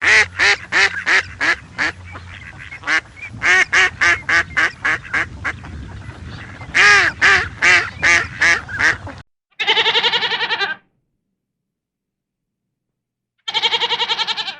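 Farmyard waterfowl calling: a rapid run of short, nasal, arched calls, several a second, for about nine seconds. After a break, two longer wavering calls of about a second each come from another farm animal.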